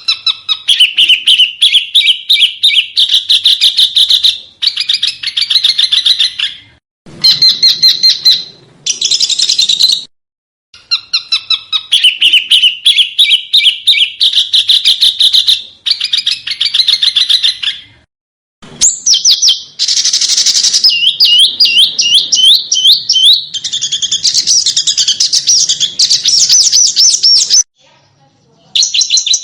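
A small songbird singing fast, sharp trills of high chirping notes in phrases a few seconds long. The phrases break off suddenly several times with brief silences, as in an edited, looped song recording made for training caged songbirds (masteran).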